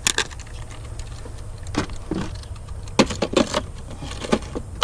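Irregular clicks and light rattles of handling, a few at a time with a cluster about three seconds in, over a steady low rumble.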